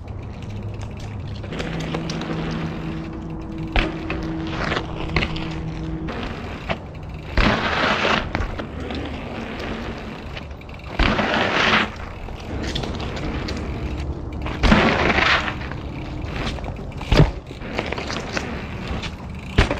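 Mountain bike riding down a rough trail: continuous tyre noise over dirt and rock, with several sharp knocks from bumps and three louder bursts of rushing noise.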